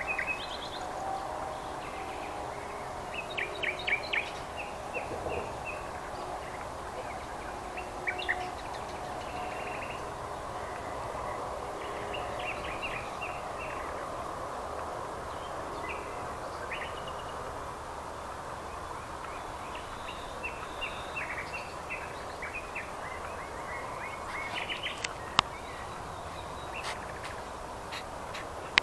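Songbirds chirping and singing in short repeated phrases over a steady background rush, with one sharp click about 25 seconds in.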